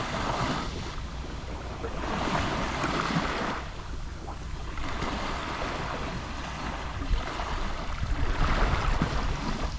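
Gentle Mediterranean waves lapping on the shore, each wash swelling and fading every few seconds, over a steady low rumble.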